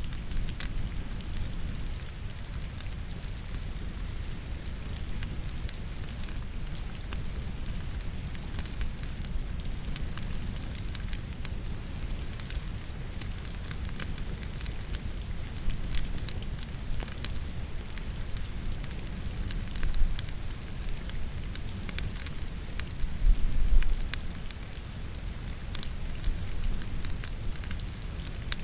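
Firewood burning in a fireplace, crackling with scattered sharp pops, over a steady sound of rain. Two louder low thumps come about two-thirds of the way through.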